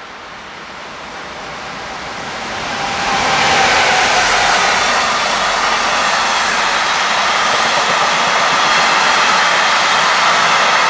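DB Class 185 electric freight locomotive approaching and passing, its sound swelling over the first three seconds or so. It is followed by the steady, loud rolling of empty container flat wagons over the rails.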